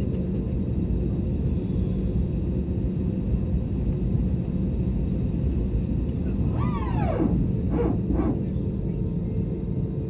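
Steady low cabin rumble of an Airbus A320neo in flight, engine and airflow noise with a faint steady hum. About six and a half seconds in, a short falling voice-like sound rises over it, followed by two brief pitched sounds.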